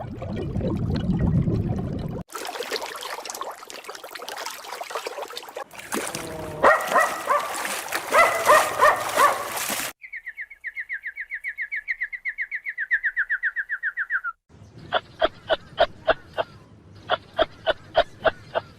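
Several different animal calls cut one after another: pitched bird-like calls, then a rapid, even trill that falls slightly in pitch for about four seconds, then two runs of sharp repeated chirps at about four a second.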